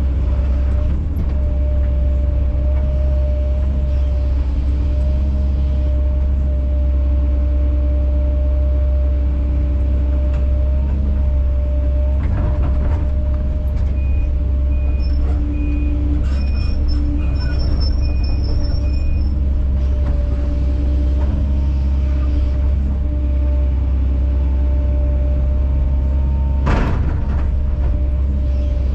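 Kobelco SK210 excavator's diesel engine running steadily with a steady hydraulic whine, while the machine works; a single clank sounds near the end.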